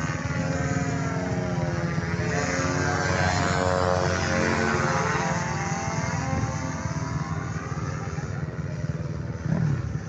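Engine of a paramotor (powered paraglider) flying past close by. It gets louder toward about four seconds in, and its pitch shifts as it passes, over a steady low engine drone.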